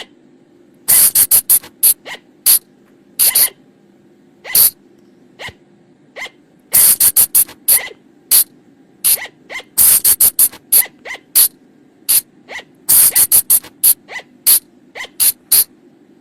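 Colugo (flying lemur) calls: short, sharp, shrill squeaks repeated in quick runs of several, with pauses between the runs. A steady low hum sits underneath.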